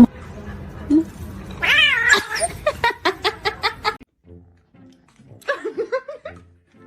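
Cat caterwauling and meowing: a drawn-out wavering call, then a run of short quick calls, and after a break a few more calls.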